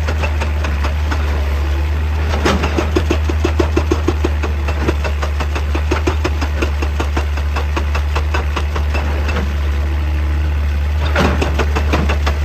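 Excavator's diesel engine running steadily, with a rapid, even knocking over it that grows heavier from about two to five seconds in and again near the end.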